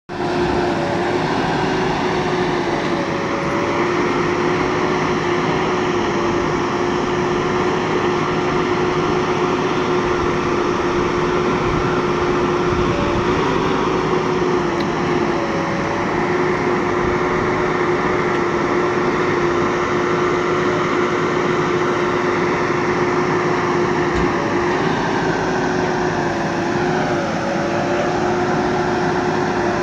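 Heavy machine's diesel engine running steadily with a droning hum, its pitch dipping and recovering briefly a few times.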